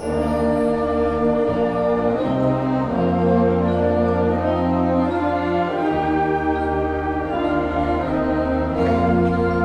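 Junior concert band of woodwinds and brass playing slow, held chords, the full band coming in loudly at the very start after a quiet passage, the chords shifting every second or two.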